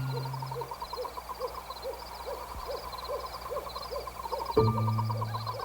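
Night-forest sound effects: an owl hooting, a low steady hoot at the start and again near the end. Under the hoots runs a steady rhythm of chirping, about two or three chirps a second.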